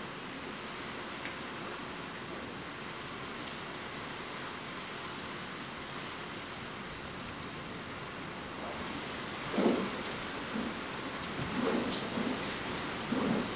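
Steady rain falling, with a few sharp drip ticks. In the last few seconds thunder begins to rumble in low swells.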